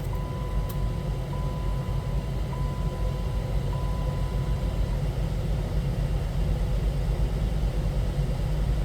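2008 Dodge Caliber's engine idling steadily just after starting, heard from inside the cabin. A steady electronic chime tone repeats in pulses about once a second for the first five seconds.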